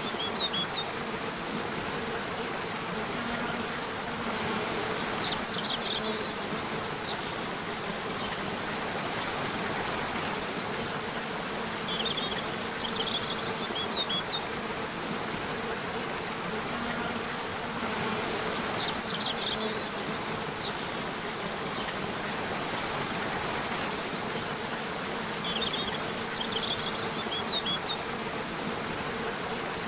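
Bees buzzing, swelling and fading, over a steady rush of running water, with a bird's short chirping phrase every five to seven seconds.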